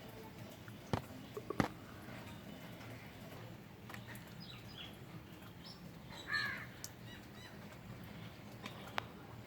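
A crow caws once, about six seconds in, over a faint steady background. There are two sharp taps around the first and second seconds and a few faint high bird chirps.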